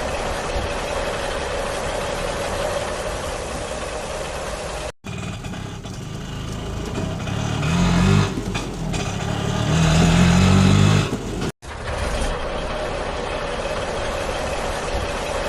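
A vehicle engine sound running steadily, in three stretches split by abrupt cuts; in the middle stretch it revs up twice.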